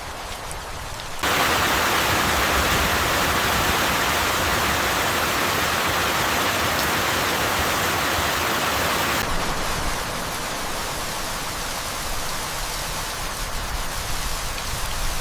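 Rain: a steady downpour hiss that jumps abruptly to a heavier, louder rush about a second in and drops back abruptly to lighter rain around nine seconds in.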